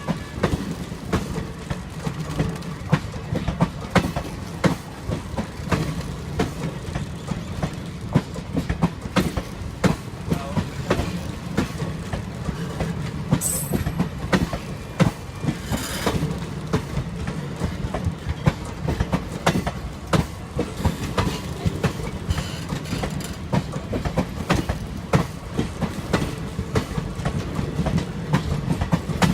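Passenger train rolling along the track, a steady low rumble with wheels clattering irregularly over rail joints. Two brief high-pitched wheel squeals come about halfway through.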